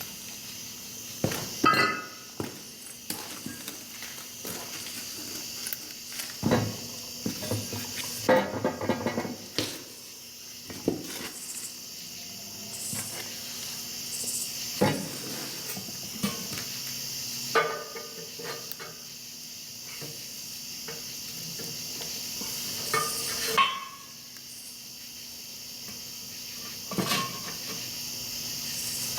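Steel parts of a three-point hitch bale lifter clinking and knocking as the greased pivot pin is lined up and fitted through the bores, with scattered sharp metal taps, a few of them ringing briefly.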